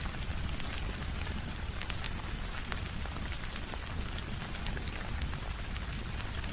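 Steady rain on a window mixed with a crackling wood fire: an even hiss of rain with frequent sharp crackles and pops scattered through it, over a low rumble.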